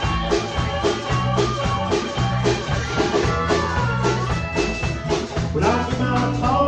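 Live country band playing an instrumental break, with a steady drum beat, a bass line moving between low notes and a lead instrument carrying the melody.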